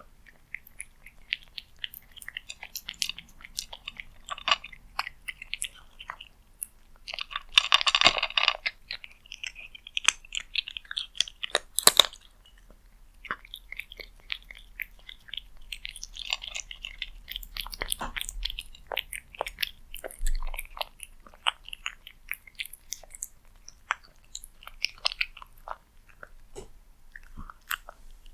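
Cat eating cat food close to the microphone: many small irregular clicks of chewing and biting, with a louder stretch about eight seconds in and a sharp single click near twelve seconds.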